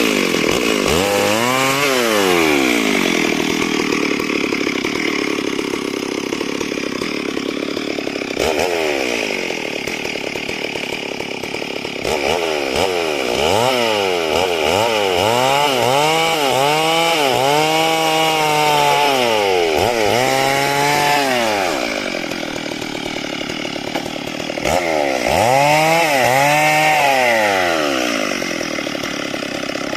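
Chainsaw cutting wood into square stock. The engine pitch dips and recovers over and over as the saw is throttled and loaded in the cut, with a run of these swells through the middle and another near the end.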